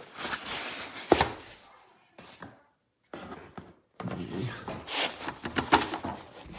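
Handling noise from unpacking a box: packaging rustling and a few knocks as items are taken out, the loudest knock about a second in.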